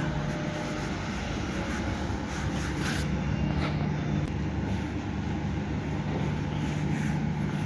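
Steady engine hum and road noise of a motor vehicle running, with no change in pitch.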